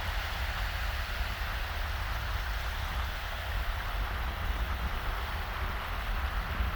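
Small waves washing steadily onto a sandy beach, over a constant low rumble.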